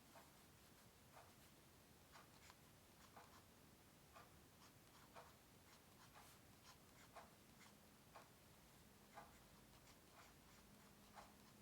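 Faint, irregular short scratching strokes of a drawing tool on paper, about one or two a second. A faint steady hum joins in over the second half.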